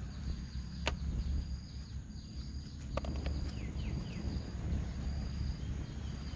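Outdoor rural ambience: a steady low rumble with many short, high chirps repeating throughout, and two sharp clicks, about a second in and about three seconds in.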